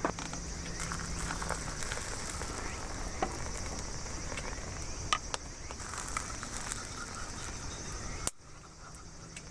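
Campfire crackling, a steady hiss broken by a few sharp pops, until the sound cuts away suddenly near the end.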